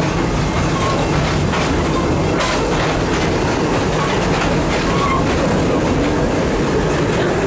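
Serengeti Express park train running, heard from inside an open-sided passenger car: a steady rumble of the cars with irregular clicks of the wheels over the rails.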